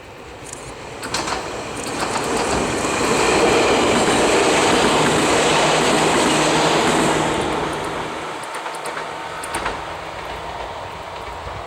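Chichibu Railway electric train passing close by: the noise builds, holds loud for several seconds, then fades, with the clack of wheels over rail joints.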